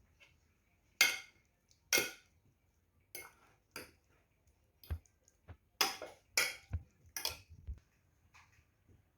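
Kitchen dishes and utensils clinking and knocking against each other in about a dozen separate sharp strikes, a few of them with a dull low thump.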